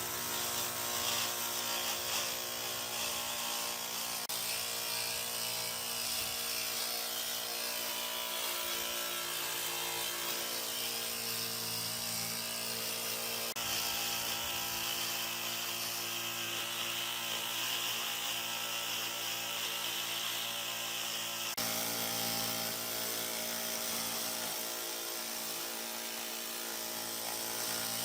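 An electric power tool runs steadily with a constant motor hum and whine. The sound shifts abruptly about two-thirds of the way through.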